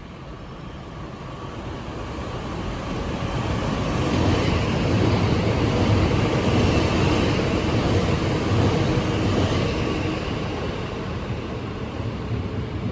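A passenger train running through the station: its rumble grows louder over the first four seconds, stays loud and eases off slightly near the end.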